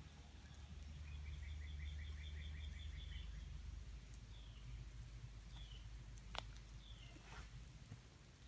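Songbird singing: a quick trill of about ten repeated chirps, followed by a few short separate falling call notes. A sharp click comes about six seconds in, over a steady low rumble.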